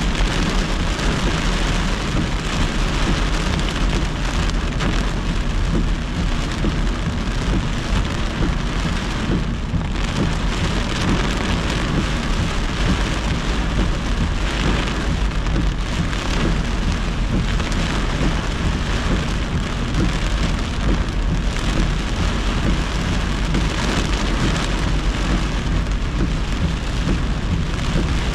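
Heavy thunderstorm rain pelting a moving car's windshield and roof, heard from inside the car as a loud, steady, dense hiss of drops over a low rumble of the car on the wet road.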